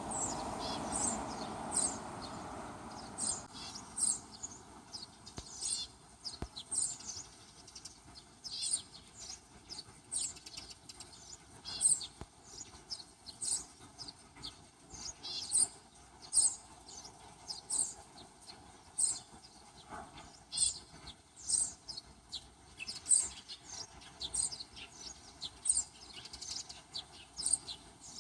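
A small bird chirping repeatedly outdoors, short high chirps about once a second. Under the first few seconds there is a steady rushing noise that cuts off abruptly.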